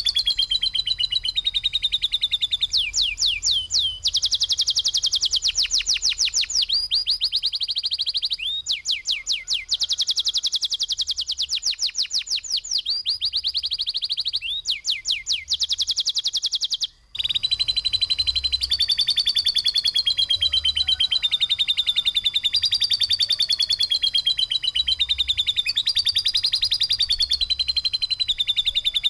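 Songbird song made of rough 'tembakan' shots: very fast, rapidly repeated sharp chirping notes in long unbroken runs, switching between stretches of sweeping higher notes and steadier lower runs. There is a brief break about 17 seconds in.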